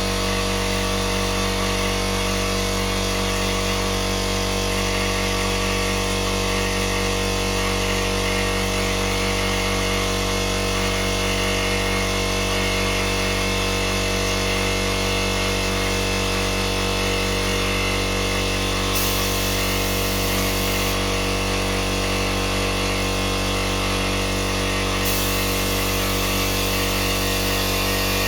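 An electric power tool's motor running steadily without pause, a constant hum with a high whine.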